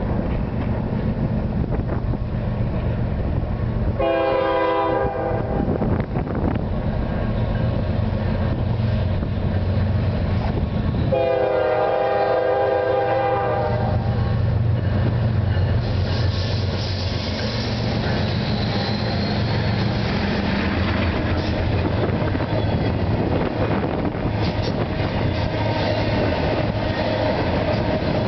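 Norfolk Southern diesel locomotives running under power as an intermodal train approaches, sounding the multi-tone air horn twice: a short blast about four seconds in and a longer one about eleven seconds in. From about sixteen seconds on, the rumble and clatter of double-stack container cars rolling past on the rails takes over.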